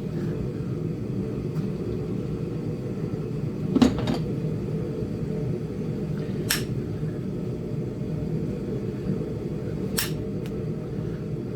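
Three sharp clicks of knapping tools on a flint biface, roughly three seconds apart, the first the loudest, over a steady low hum.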